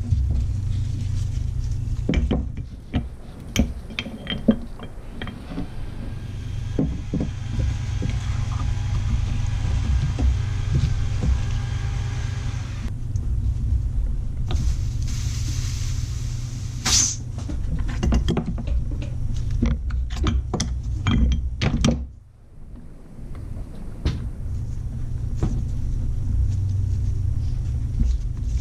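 Hand work on a Toyota brake caliper to free its stuck pistons: scattered metal clicks and knocks, with stretches of hiss, over a steady low hum.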